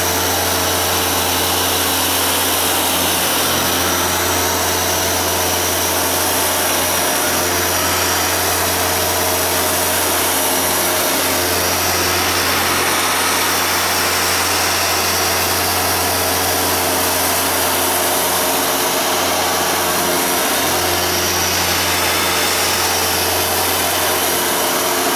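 Hoover Dual Power Max carpet washer running steadily, its suction motor and scrubbing brushes working a soiled carpet: a steady low hum under a hissing rush of air.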